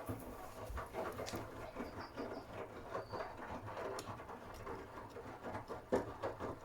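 Miele W1 front-loading washing machine partway through a cotton 60 °C wash, with a plastic outer tub: the drum turning with wet laundry tumbling and water splashing, heard as an irregular run of soft knocks and clicks over a steady wash.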